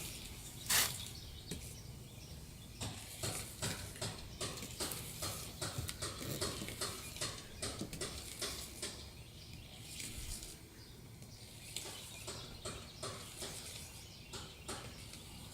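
Irregular series of short scrapes and clicks, about two to three a second, from hand work removing overspray from a boat's gel coat.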